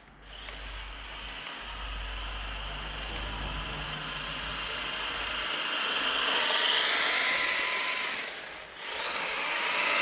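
Small electric RC truck's brushed 370 motor whining under throttle with tyre noise, growing louder to a peak and then cutting out briefly about nine seconds in before it runs again.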